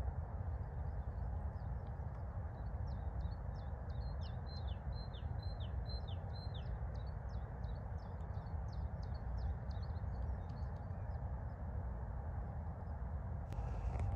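A small songbird sings a long run of short, high chirps, with a phrase of about five quick falling notes in the middle, over a steady low background rumble.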